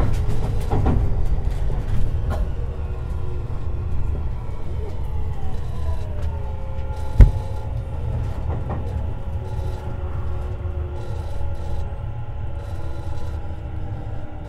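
Tobu 50090 series electric train running, heard from under the car floor: a steady rumble of wheels on rail with the thin whine of the traction motors sliding down in pitch. A single sharp knock comes about seven seconds in.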